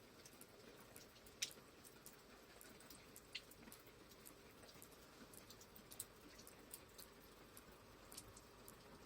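Faint rain: single raindrops ticking at irregular intervals over a low steady hiss, one sharper tick about a second and a half in.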